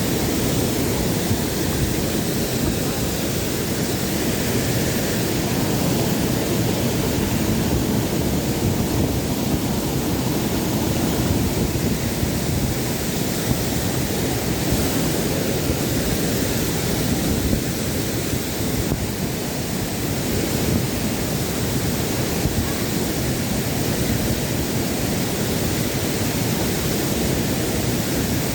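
Steady rush of a waterfall's falling water, an even, unbroken noise.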